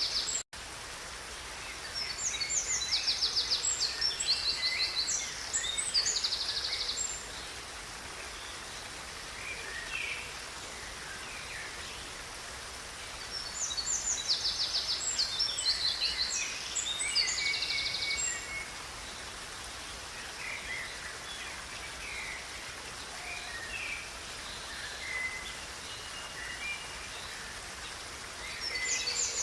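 Songbirds singing in two long bouts of rapid, high trilled phrases, over a steady rushing of river water. The sound cuts out for a split second about half a second in.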